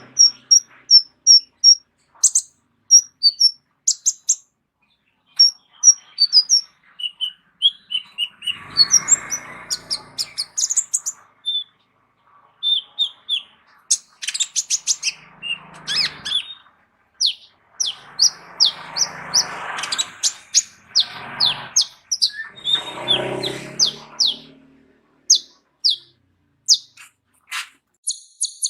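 Kolibri ninja sunbird singing a long, varied song: rapid strings of high, thin chirps and short sliding notes. A few harsher, rasping bursts are mixed in.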